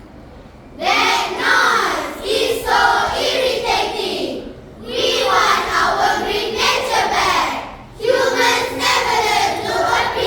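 A chorus of children's voices delivering lines together in unison, in three long phrases with short breaks between them, starting about a second in.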